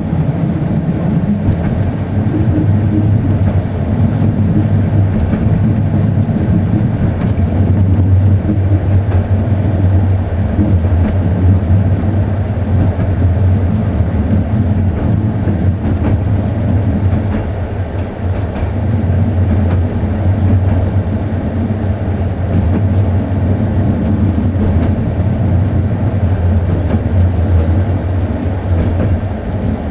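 Passenger train running along the line, heard from aboard a coach: a steady low rumble of wheels on rail, with a few faint clicks.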